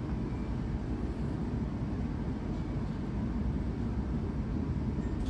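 Steady low rumble of a passenger train, with no distinct knocks or horn.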